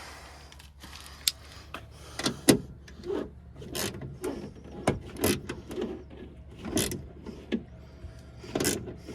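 Hand socket ratchet working a bolt inside a car door, clicking in short, uneven strokes with metal knocks and scrapes between them.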